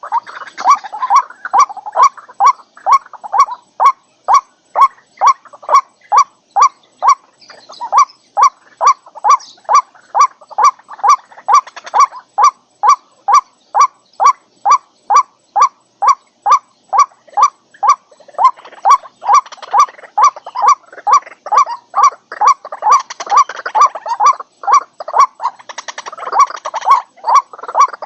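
White-breasted waterhen calling: a monotonous, evenly repeated note at about two per second, with rougher croaking calls underneath at times.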